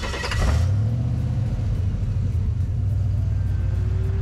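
Jeep LJ's engine, after a short rush of noise, revs up about half a second in and holds a steady higher note under load as it pulls in the sand. The engine has been overheating in the dunes, which the owner blames on climbing in four-low.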